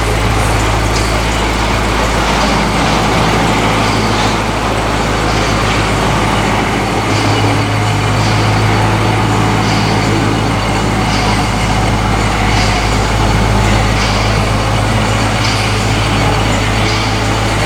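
A motor vehicle's engine running steadily with a low drone, with faint regular ticking on top.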